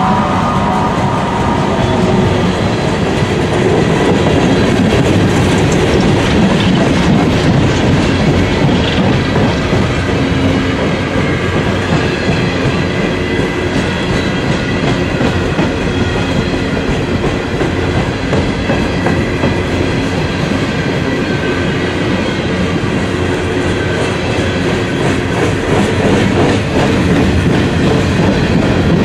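Empty coal hopper cars of a freight train rolling past close by: a loud, steady rumble of steel wheels on the rails.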